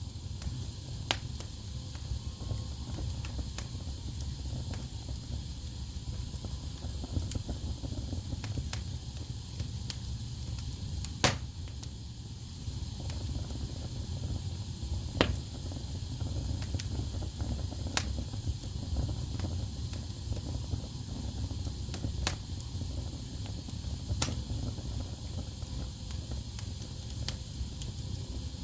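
Wood fire burning in a fireplace: a steady low rumble and hiss of flames with scattered sharp crackles and pops from the burning logs, the loudest pop about eleven seconds in.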